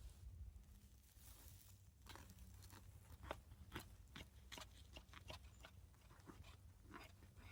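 Faint crunching of a crisp toasted hot sandwich: irregular sharp crackles, roughly two a second, starting about two seconds in.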